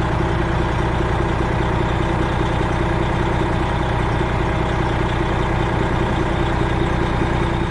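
Semi-truck diesel engine idling steadily, a Freightliner Classic XL.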